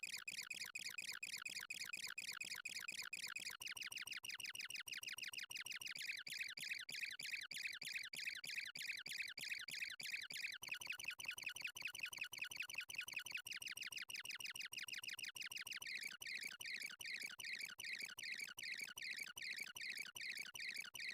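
Faint, rapid train of short high-pitched electronic chirping tones, pulsing many times a second; its pitch band shifts twice along the way.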